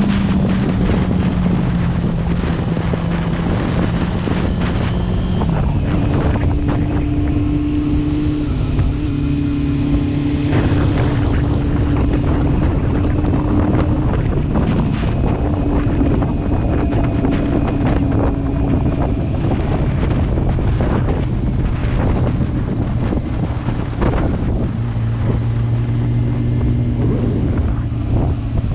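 Motorcycle engine running while riding, its pitch stepping up and down every few seconds with throttle and speed, under heavy wind noise on the microphone.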